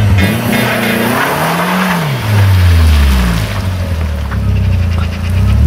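Car engine running under load, its note rising and falling about a second in, then holding a steadier low drone.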